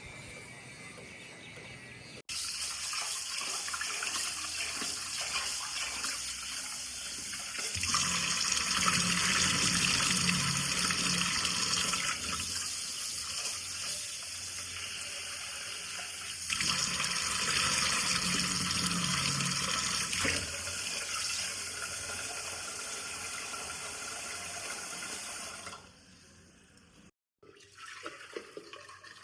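Water running and splashing, as from a tap or spout. It starts suddenly about two seconds in, gets louder and heavier twice for a few seconds each, and cuts off near the end.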